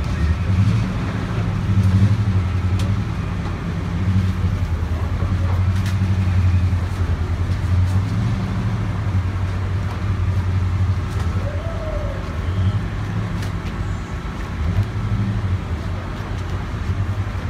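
Steady low rumble of motor vehicles running, with a few faint clicks.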